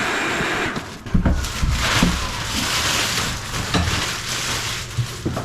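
A steady motor noise cuts off about a second in. Then a plastic contractor bag crinkles and rustles as demolition debris is forced into it, with several thumps.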